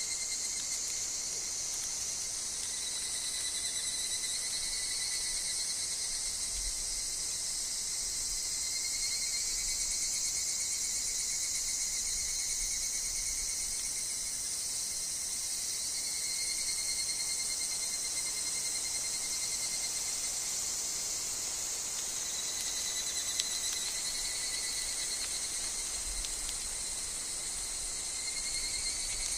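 Steady chorus of forest insects, with higurashi (evening cicadas) among them: a dense high-pitched shrill with thin, slightly wavering whistling tones underneath, unbroken throughout.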